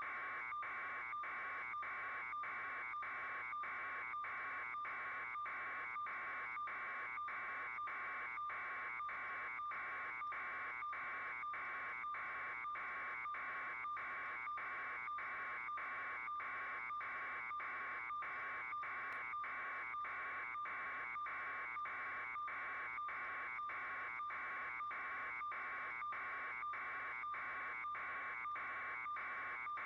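Steady electronic buzzing hiss with a faint tone in it, pulsing evenly about twice a second without change.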